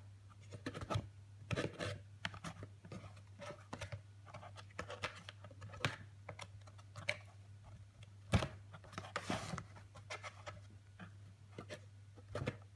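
Irregular scratching, scraping and tapping on a box as fingers poke through its holes and a cat bats at them, with a steady low hum underneath.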